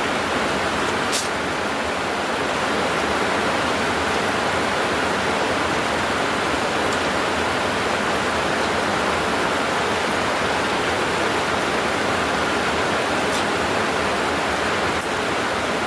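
Heavy rain pouring down in a steady, dense hiss, with a few faint sharp ticks now and then.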